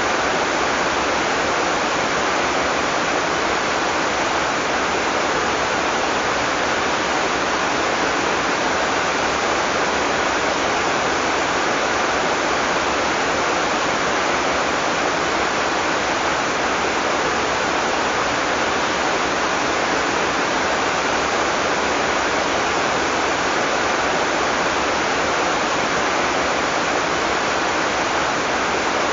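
Heavy tropical rain falling steadily, an even unbroken hiss with no thunder.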